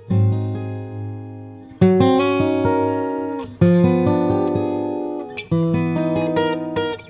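Background music: an acoustic guitar playing plucked chords and notes that ring out and fade, with a fresh chord struck every couple of seconds.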